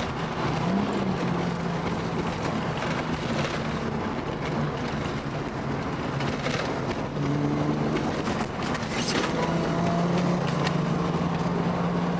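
Car engine running steadily over road noise, its pitch stepping up and down a few times.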